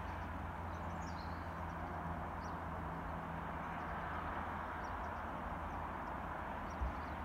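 Birds chirping faintly a few times over a steady outdoor rumble and hiss, with one brief low bump near the end.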